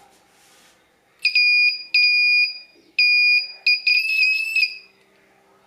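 Electronic piezo buzzer beeping with a steady, high-pitched tone: three beeps of about half a second each, then a quick stuttering run of short beeps.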